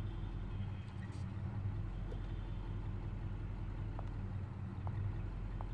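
Car engine idling with a low, steady hum. A few faint clicks come in the second half as the passenger door is opened.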